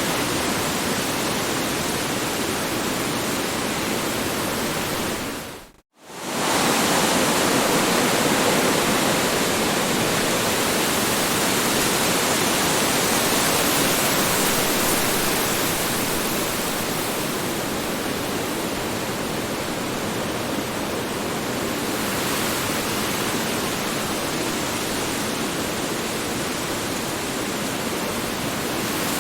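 Strong wind sound effect: a steady, dense rushing of wind. About six seconds in it briefly fades almost to silence and swells back up.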